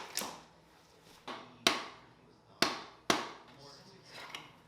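Four sharp knocks or clinks, hard objects striking each other, with a short ring after each, over faint background talk.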